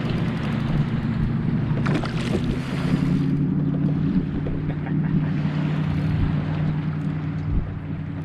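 A boat motor running steadily: a low, even drone that shifts pitch slightly about two and a half seconds in.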